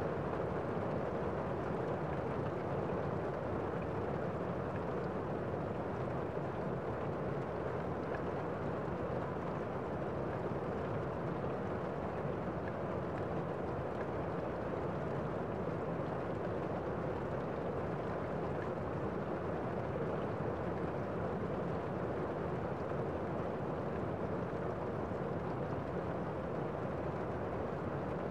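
Steady rain falling: a constant, muffled rushing with no distinct drops.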